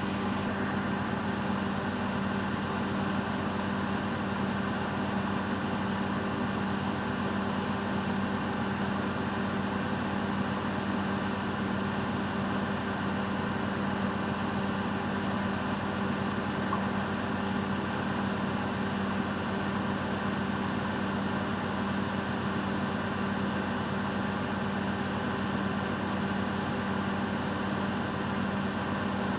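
Miele Novotronic W822 washing machine in its final spin, the drum spinning steadily at speed with an even motor hum and whir.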